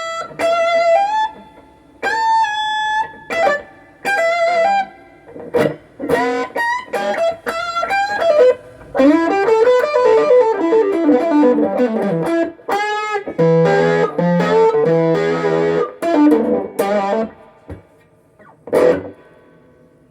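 Vintage V100 electric guitar played through a Peavey Backstage Plus amp and a Boss ME25 multi-effects unit. It plays lead phrases of single notes with wavering bends, quick runs of notes falling and rising, and a few short stabbed chords, then a pause and one last struck note near the end.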